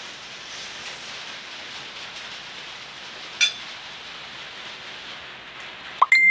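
Steady rain hiss throughout, with a sharp clink about three and a half seconds in and a ringing clink near the end, typical of a fork against a plate.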